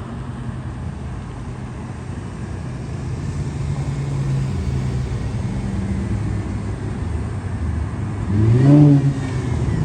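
Infiniti Q50 with its muffler deleted, the exhaust droning steadily under way and swelling a little from about three seconds in. Near the end a quick rev rises and falls, the loudest moment.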